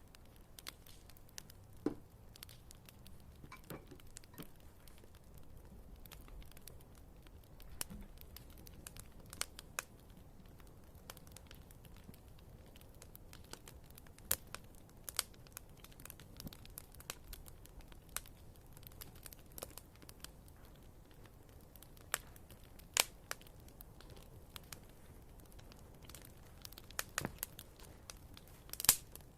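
Wood fire burning in a fireplace: scattered, irregular crackles and pops of burning firewood over a faint low hiss, the sharpest pops near the end.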